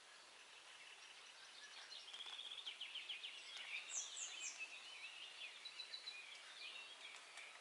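Faint dawn birdsong: several songbirds singing and chirping, growing busier about two seconds in with quick trills and a few very high notes, over a soft outdoor hiss.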